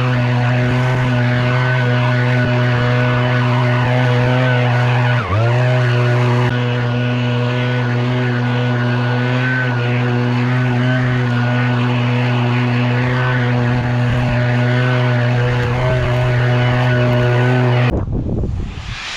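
Small engine running at a steady speed, with one brief dip in pitch about five seconds in, then cutting off abruptly near the end.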